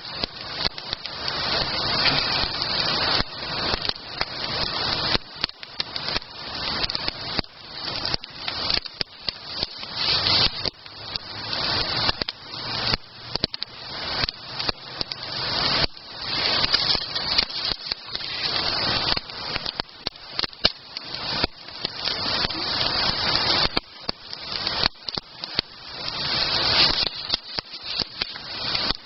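Campfire burning: an uneven rushing hiss that swells and drops every second or two.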